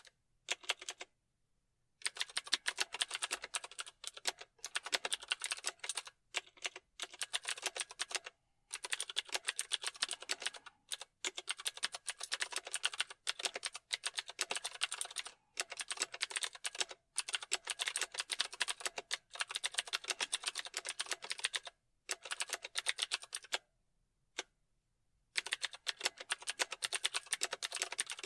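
Fast typing on a keyboard: quick runs of key clicks broken by short pauses, the longest pauses about a second and a half each, near the start and again near the end.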